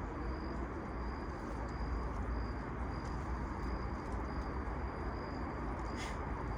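An insect chirping steadily, a short high pulse about twice a second, over a low steady rumble of outdoor background noise.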